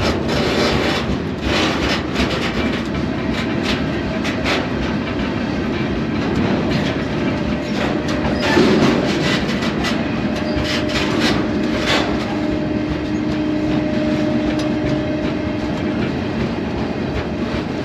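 A freight train rolling along, heard from aboard a car: a steady rumble and rattle of the cars, with repeated clacks of the wheels over the rail. About ten seconds in, a steady humming tone joins for about six seconds.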